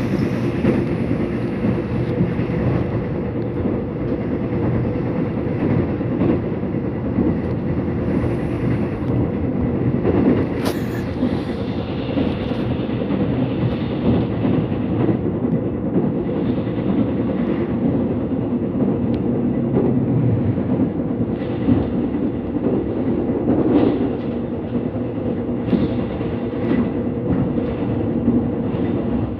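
Subway train running, heard from inside the car: a steady rumble of wheels on track with the rolling hum of the carriage and occasional faint clacks from the rails.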